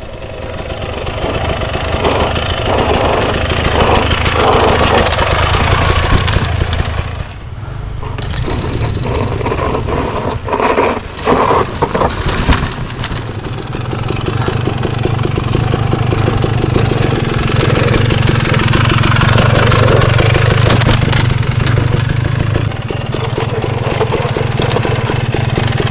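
Dirt bike engine running under changing throttle, easing off briefly about seven seconds in, then pulling steadily again.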